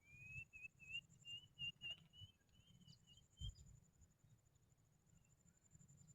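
A bird's thin, wavering whistle, rising slightly, for about three and a half seconds, over a steady high-pitched insect trill in the paddy field.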